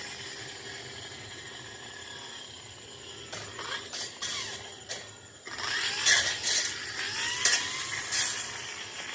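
Tanzu brush cutter's two-stroke engine running low for the first few seconds, then revved up a little past halfway, with rising whines and sharp crackling hits as it cuts into the brush.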